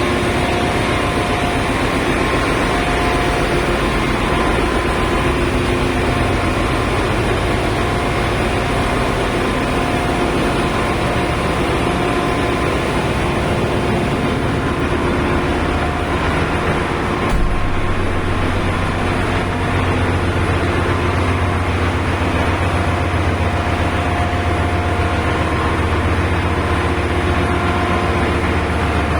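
Ship's engine-room machinery running: a loud, steady drone with several held tones over a deep hum. A brief knock about 17 seconds in, after which the low hum is stronger.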